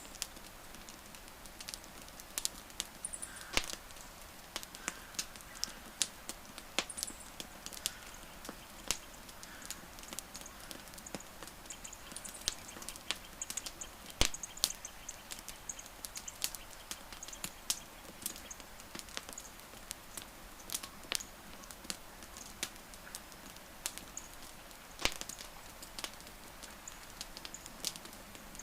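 Wood fire crackling, with frequent irregular sharp pops and snaps over a steady low hiss; one loud snap about halfway through and another near the end.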